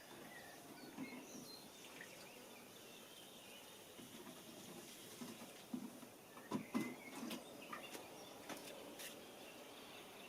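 Faint outdoor background noise with a few faint chirps, then a cluster of light clicks and knocks between about five and nine seconds in.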